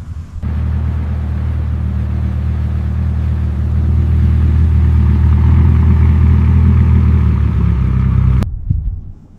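An old car's engine running steadily at a constant low speed, growing slightly louder, then stopping abruptly about a second before the end.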